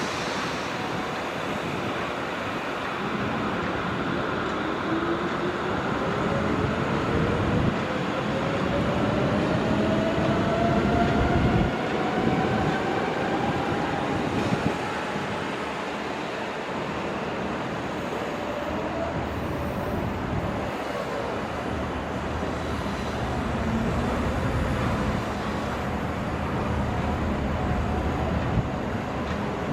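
Heavy vehicle noise: a steady rumble with a whine that climbs in pitch over about ten seconds, starting a few seconds in.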